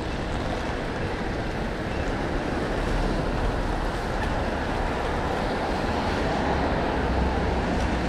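Steady rush of storm wind and street traffic on a busy city street, an even noise without distinct events.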